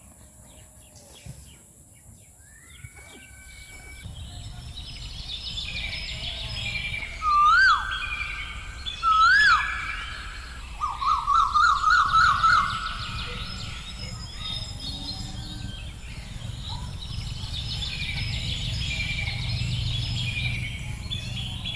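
Birds calling and chirping, with two loud whistled swooping calls and then a fast, loud warbling trill around the middle, over a steady low rumble.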